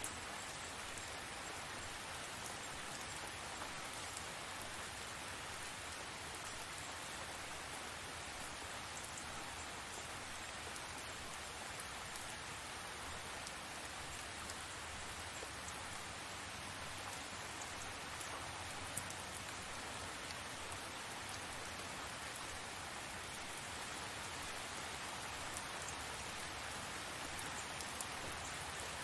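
Tropical rain falling steadily: a dense, even hiss with scattered sharper ticks of individual drops.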